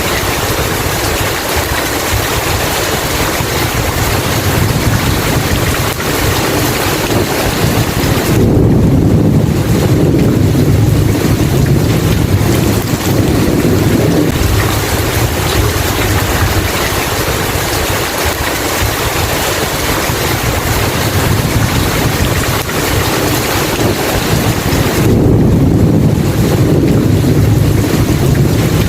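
Steady heavy rain with rolling thunder: a long low rumble swells up about eight seconds in and lasts several seconds, and a second one rolls in near the end.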